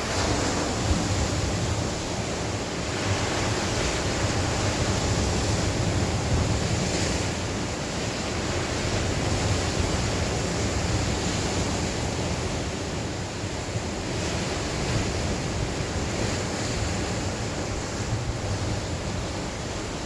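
Sea waves washing and breaking on the shore, a continuous rush of surf that swells and eases, with wind blowing across the microphone adding a low rumble.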